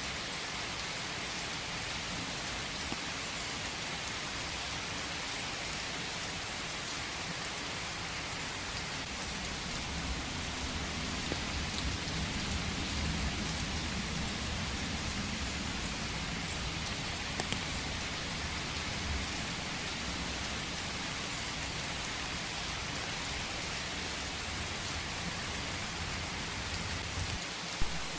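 Steady rain falling in a forest, an even hiss with scattered drops ticking. A low rumble swells and fades from about ten to sixteen seconds in, and a single sharp tap stands out near the end.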